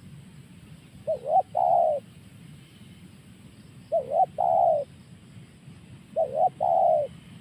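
Spotted dove (tekukur) cooing: three calls about two and a half seconds apart, each two short coos followed by a longer, falling coo.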